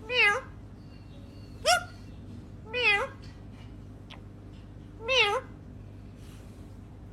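Four short meows spaced one to two seconds apart; the second sweeps sharply upward in pitch.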